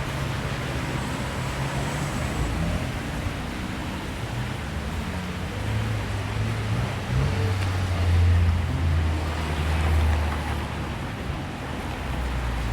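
Road traffic with a steady hiss, and a low rumble that swells for several seconds past the middle as a vehicle passes close by.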